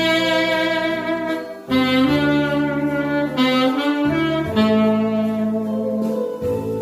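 Saxophone playing a slow melody of long held notes, changing pitch about every second, over a musical accompaniment.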